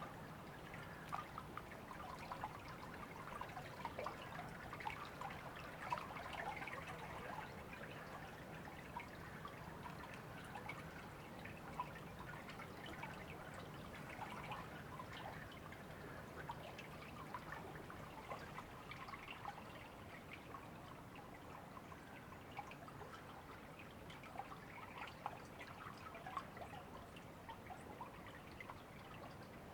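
Shallow river water trickling and babbling steadily, a dense patter of small splashes and drips.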